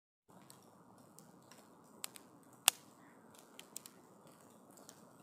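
Wood campfire crackling quietly under a faint hiss, with scattered sharp pops, the loudest about two and a half seconds in.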